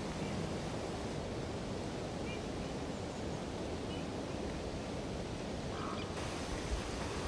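Steady background hiss with a few faint, short animal calls.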